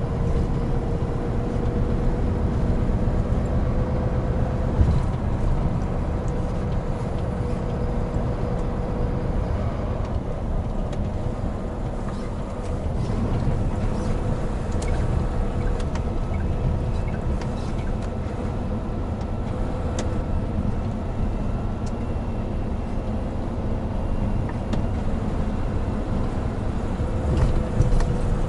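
Hino Profia heavy truck running steadily on the road, its diesel engine's low rumble mixed with road noise and a steady whine held at one pitch.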